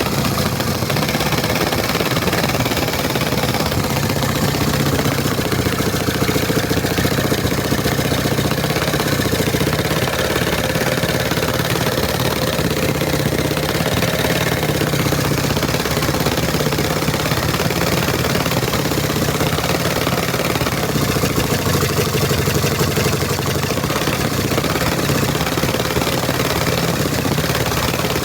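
Small engine converted from two-stroke to four-stroke running steadily at full throttle, its pitch wavering slightly.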